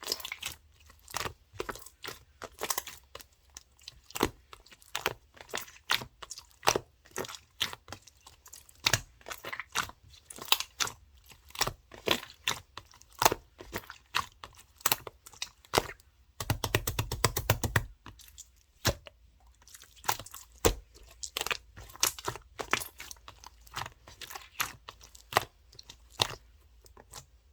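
Clear slime being pressed and poked, giving irregular sharp wet clicks and pops. About two-thirds of the way in comes a rapid run of clicks for a second and a half.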